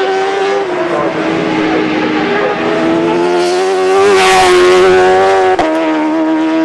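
Superbike racing motorcycles running hard on track. The engine note holds high and steps between pitches several times, and one bike passes loudest about four seconds in.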